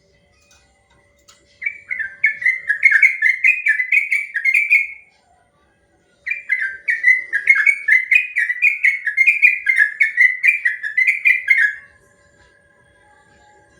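Yellow-vented bulbul (trucukan) singing its long rapid song: two runs of quick repeated whistled notes, the second run longer.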